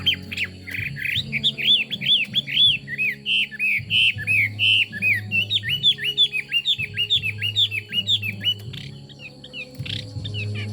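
Chinese hwamei singing a fast, loud run of whistled notes, each rising and falling, that breaks off about nine seconds in, followed by a single note near the end.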